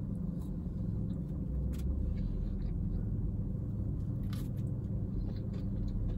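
Quiet eating sounds, faint chewing and small clicks, as fries and a cheeseburger are eaten, over a steady low rumble in the car's cabin.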